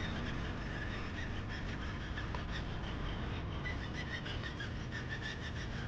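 Fishing reel being wound steadily during a lure retrieve, a fine, even ticking over a steady background hiss.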